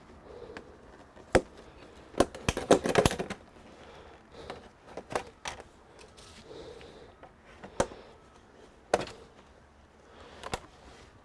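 Irregular sharp clicks and knocks of computer parts and small tools being handled, with a quick cluster of clicks about two to three seconds in.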